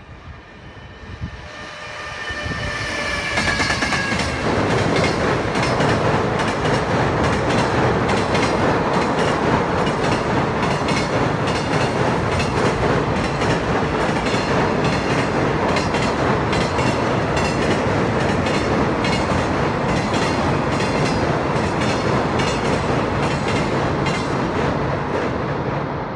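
Container freight train hauled by an EF210 electric locomotive crossing a steel truss bridge. It begins with a high tone that falls slightly in pitch as the locomotive approaches. From about four seconds in comes a loud, steady rumble of the wagons, with regular clicks of wheels passing over rail joints.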